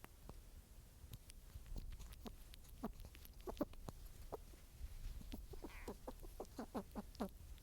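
An animal clucking softly in short, low calls, a few around three to four seconds in, then a quicker run of them from about six to seven seconds in, over a faint outdoor rumble.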